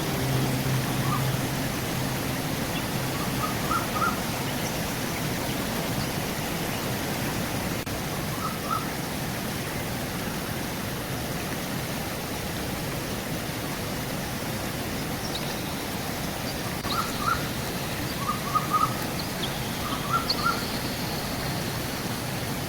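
Steady rush of a flowing river with small birds chirping over it in short quick clusters of notes every few seconds, more often in the second half, and a thin high call near the end.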